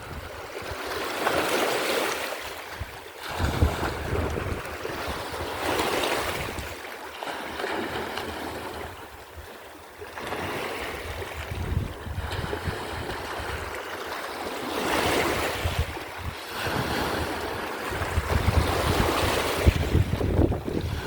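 Sea waves washing in, with a surge of surf every few seconds, and wind buffeting the microphone.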